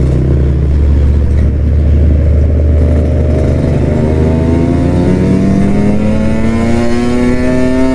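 Kawasaki Ninja RR 150's two-stroke single-cylinder engine running under way, low and steady at first, then revving up with a steadily rising pitch through the second half as the bike accelerates.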